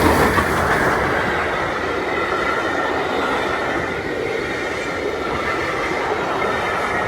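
Train passing over a level crossing close by, loudest right at the start and then a steady rumble of carriages going through. A faint, steady high tone sits above it from about two seconds in.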